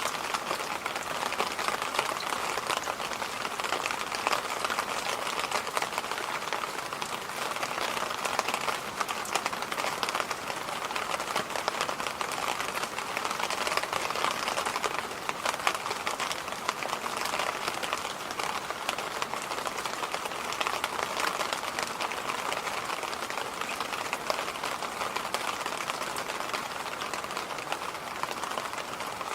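Electric fan running steadily: an even rushing hiss with a fine crackly texture that never changes.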